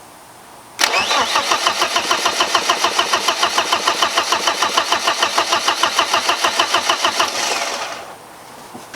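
The four-cylinder engine of a turbocharged 1995 BMW E36 318ti is being cranked over by its starter in a fast, even rhythm for about seven seconds without firing, while fuel is still being drawn up after the rebuild. The cranking starts about a second in and winds down near the end.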